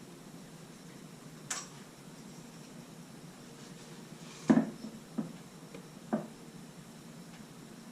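A faint click, then three knocks of hard objects against one another, the first the loudest, over a low steady hum.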